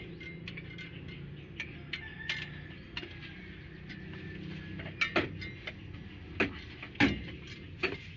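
Irregular metallic clicks and clinks of hand tools and engine parts being handled during engine work, with a few louder knocks in the second half, over a low steady hum.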